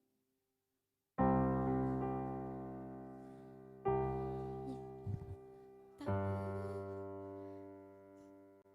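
Piano or keyboard playing three held chords about two and a half seconds apart, each struck and left to ring and fade: the introduction to the song before the singer comes in.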